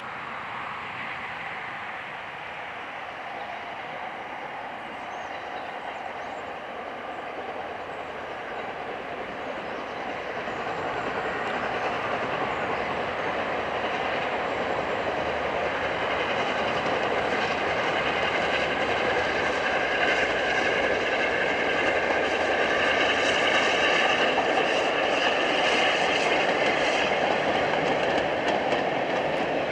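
LNER A4 Pacific 60007 Sir Nigel Gresley, a three-cylinder steam locomotive, approaching with its train, with the rumble and clatter of wheels on rail growing steadily louder. A higher ringing tone joins in about two-thirds of the way through as the train draws closest.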